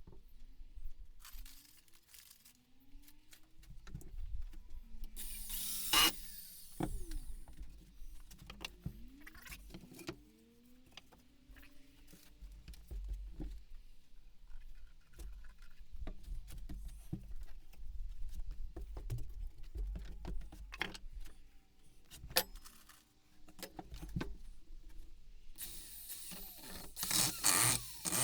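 Workshop handling noise: scattered knocks, clicks and clatter as parts and tools are picked up and set down, with two louder bursts of hissing noise, one about six seconds in and one near the end.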